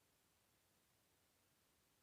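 Near silence: only faint steady hiss.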